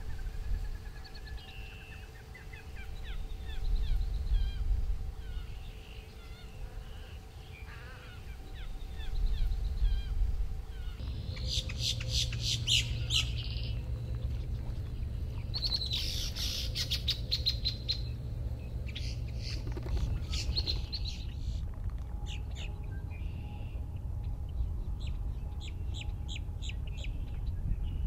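Birds calling: scattered short chirps at first, then after about ten seconds several bursts of fast, high chattering trills, over a low steady rumble.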